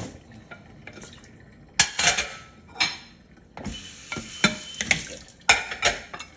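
Dishes, bowls and cutlery clattering and clinking as they are stacked into a dishwasher rack: a string of sharp knocks, loudest about two seconds in and again near the end, with a brief hiss in the middle.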